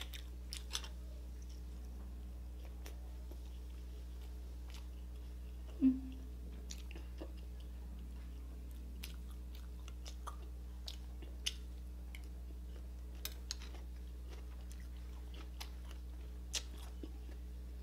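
A person chewing grilled street food and rice close to the microphone, with scattered small wet clicks and smacks of the mouth. A short hummed "mm" about six seconds in, over a steady low hum.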